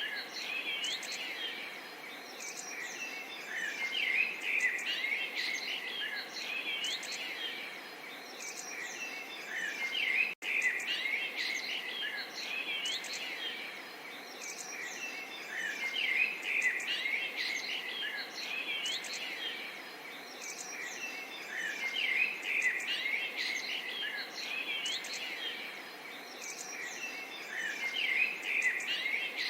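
Many small songbirds chirping and twittering over the steady murmur of gently running water. The chorus swells and eases every few seconds, and the sound cuts out for an instant about ten seconds in.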